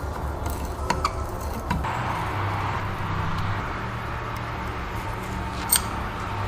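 Small metal parts clicking a few times over a steady low hum, with one sharp, ringing metallic click near the end.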